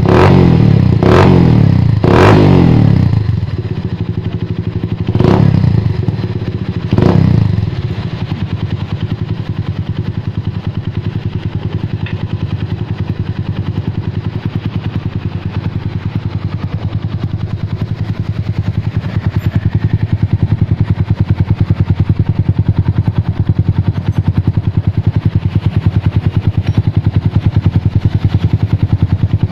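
Kawasaki W175's single-cylinder engine running through an aftermarket Prospeed racing exhaust: the throttle is blipped four times in the first eight seconds, then it settles into a steady idle with fast, even exhaust pulses, a little louder in the last third.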